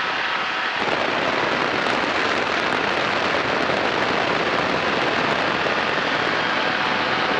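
Kolb Firefly ultralight airplane in flight: its engine running steadily under a heavy rush of wind over the open cockpit, which grows fuller about a second in.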